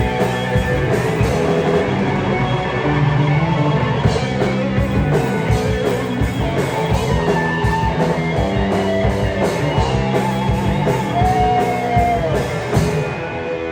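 Rock band playing live, with electric guitar, bass and drum kit. A guitar note is bent up and down near the end, then the drums stop and the guitar carries on alone.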